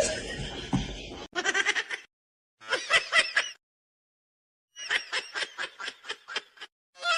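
An animal calling in runs of short, quick, repeated cries, several a second, the runs broken by abrupt silences.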